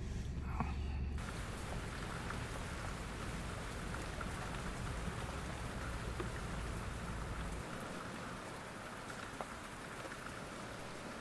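Steady rain falling, with scattered individual drops ticking. A low hum runs underneath and stops about two-thirds of the way through.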